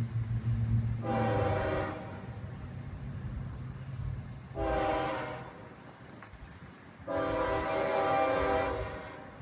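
CSX freight locomotive's air horn sounding three blasts: two of about a second each, then a longer one near the end, the grade-crossing warning. A low diesel engine rumble runs underneath and fades about halfway through.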